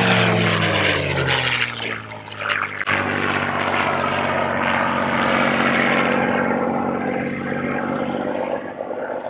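Propeller aircraft's piston engine running, its pitch falling over the first two seconds, then holding steady.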